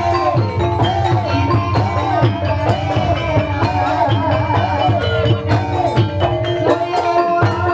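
Live Banyumas ebeg accompaniment: drum-led folk gamelan music with quick hand-drum strokes and struck percussion over steady held notes, and a melodic line that swoops up and down again and again.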